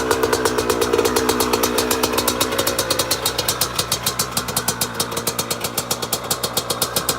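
A Yamaha YZ85's single-cylinder two-stroke engine running at low revs with a steady, rapid pulsing, easing off a little in level through the middle.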